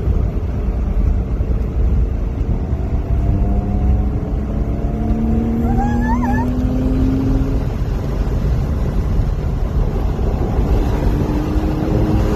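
Race car engine heard from inside the cabin on a hot lap, over heavy low rumble and road noise. Its pitch climbs steadily for several seconds as the car accelerates, falls away, then climbs again near the end. A brief wavering high squeal comes about six seconds in.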